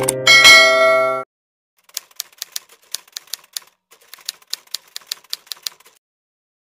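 Typewriter-clack sound effect: two runs of sharp key clicks at about five a second, matching a caption typed out letter by letter. It follows a short burst of music that cuts off about a second in, and that music is the loudest sound here.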